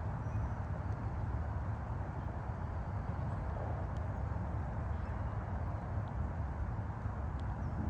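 Steady low rumble of distant highway traffic, with a few faint, short high ticks over it.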